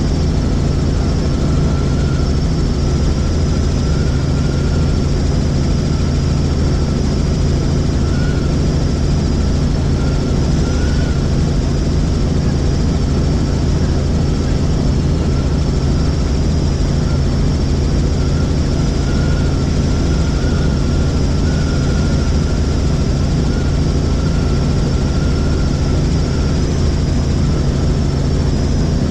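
Helicopter in flight, its rotor and engine giving a steady, loud drone with a thin high whine running above it.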